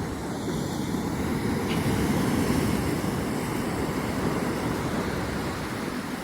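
Big ocean waves breaking and rushing as surf, with wind buffeting the microphone; the rush swells to its loudest about two seconds in.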